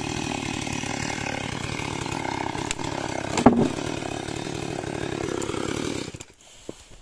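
Chainsaw running as it rips timber into a beam, with one sharp knock about halfway through. The saw cuts off suddenly near the end, leaving only faint clicks.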